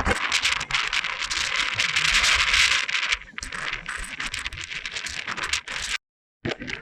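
Strong wind rushing, with a crackly, gusty hiss. It eases a little about three seconds in and cuts off abruptly near the end.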